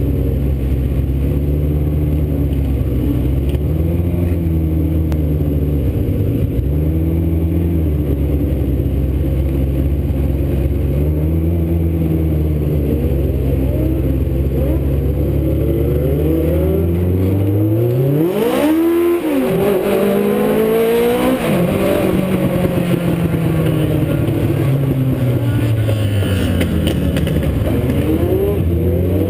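Legends race cars' motorcycle engines running at racing speed on a short oval track, their pitch rising and falling over and over as the cars go around. About two-thirds of the way through, one car passes close with a sharp rise and drop in pitch, and then several engines are heard together.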